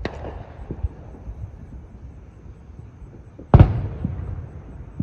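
Aerial fireworks shells bursting: a sharp bang right at the start and a smaller thump about a second in, then a much louder boom about three and a half seconds in that rumbles away as it echoes.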